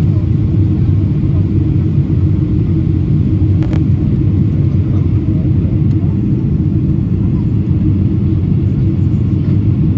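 Steady low rumble of a Boeing 777-300ER airliner.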